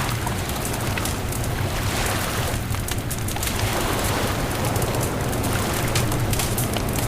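Beach bonfire crackling with a constant run of small sharp pops, over a steady low rumble of surf and wind.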